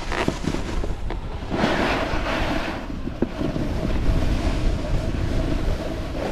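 Wind buffeting the microphone over the steady swish of a snowboard sliding through wet powder, with a louder swish about two seconds in.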